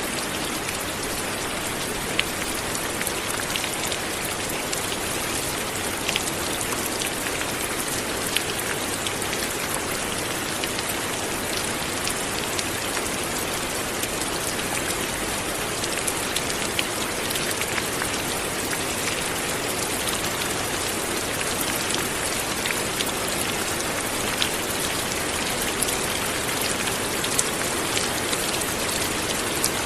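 Light rain falling steadily, an even hiss of rain on surfaces with scattered distinct drop ticks.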